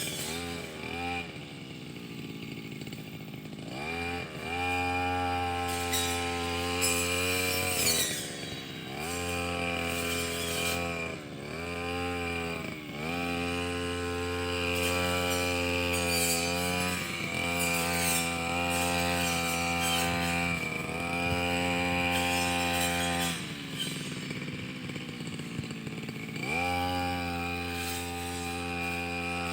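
Brush cutter engine running, throttled up to a high steady pitch while cutting and dropping back toward idle between cuts, over and over. It falls to a low idle for a few seconds near the end, then revs up again.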